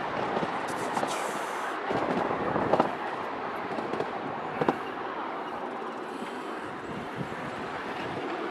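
A slow park ride train rolling along its track: a steady running rumble with a few sharp clicks and knocks from the wheels.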